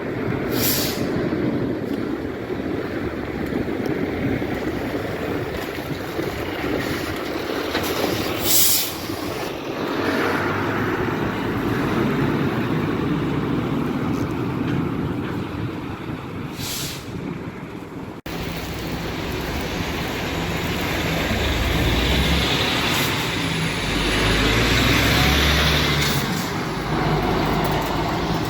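Heavy trucks driving by with steady engine and road noise. Three short hisses come in the first part, typical of truck air brakes. After a cut, a deeper diesel engine rumble swells as a truck passes.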